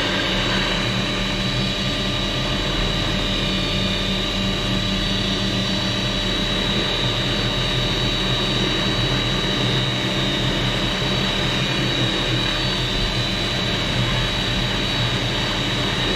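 Helicopter engine and rotor running steadily, heard from inside the cabin.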